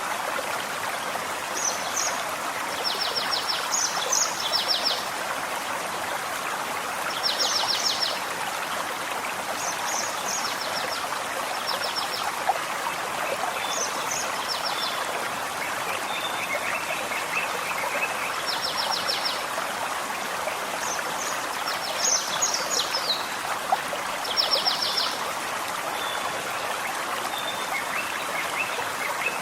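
Forest stream flowing steadily, a constant rushing water sound. Over it a small songbird sings short, rapid high trills again and again, every few seconds, with a few fainter chirps between.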